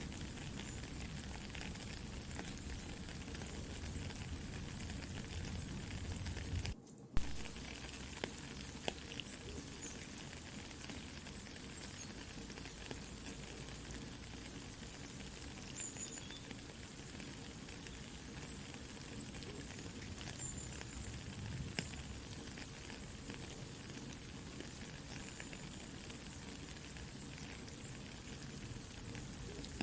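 Steady soft rain hiss mixed with the pops and crackles of a campfire. About seven seconds in, the sound cuts out for an instant and comes back with a sharp pop.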